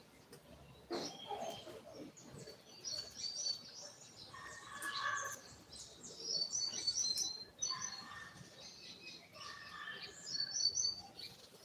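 Double-collared seedeater (coleiro) singing its 'tui tui' song type: about five short phrases of quick, high chirping notes, a second or two apart.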